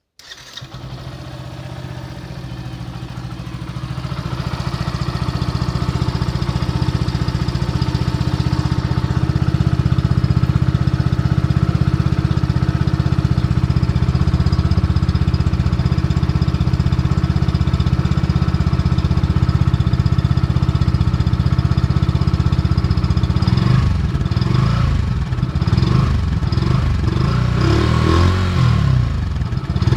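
Yamaha FZ V3 BS6 motorcycle's 149 cc single-cylinder engine through its stock exhaust, starting up at the outset and idling steadily, growing louder over the first several seconds. From about 24 seconds in, the throttle is blipped, the engine note rising and falling.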